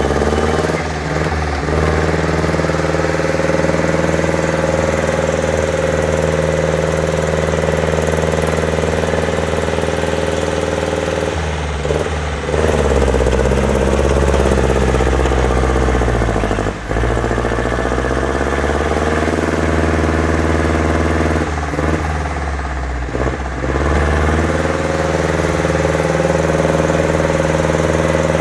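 Trial truck's engine running at steady revs, its pitch shifting about twelve seconds in and again a little after twenty seconds. There is one sharp knock about seventeen seconds in.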